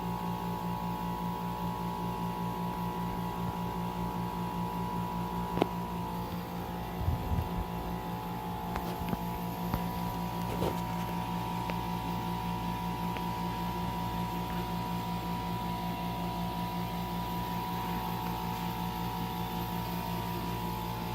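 Paris Rhone 10200 BTU window air conditioner humming steadily while blowing no air, a few light knocks partway through. The unit is malfunctioning: it sounds as if the compressor is trying to kick in, and the owner puts the fault down to its temperature sensing.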